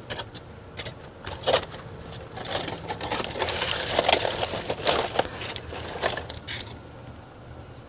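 Handling noises while saucing ribs: a run of light clicks and knocks with rustling and scraping, busiest in the middle, stopping about a second before the end.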